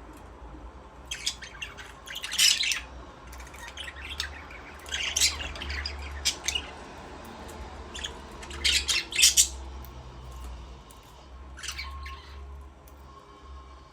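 Budgerigars chirping and squawking in short, loud bursts a few seconds apart.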